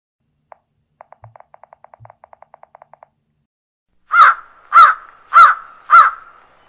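A crow cawing four times, loud and evenly spaced about half a second apart, in the second half. Before the caws, a quick run of faint ticks, about nine a second, lasting about two seconds.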